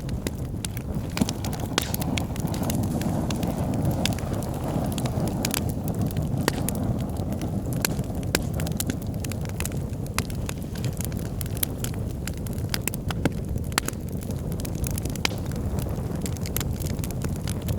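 Wood logs burning in a fireplace: many sharp, irregular crackles and pops over a steady low rush of flame.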